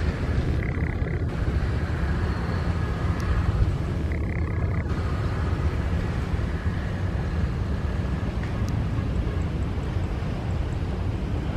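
Jet airliner engines running, a steady low rumble.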